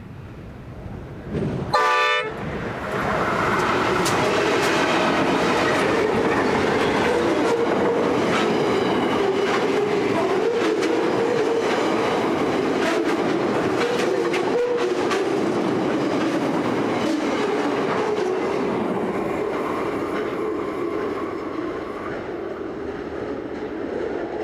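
Freight train's diesel locomotive horn sounding one short blast about two seconds in. Then the train passes close by: the locomotives followed by loaded steel wagons, with steady rumble and the repeated clickety-clack of wheels over rail joints, easing off near the end as the last wagons go by.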